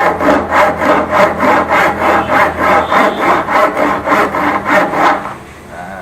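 Hand saw cutting through wood with quick, even strokes, about four a second, stopping about five seconds in.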